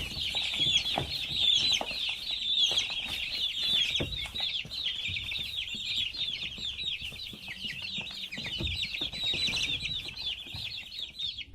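A brood of chicks peeping all together, a dense, continuous chorus of short, high-pitched overlapping cheeps.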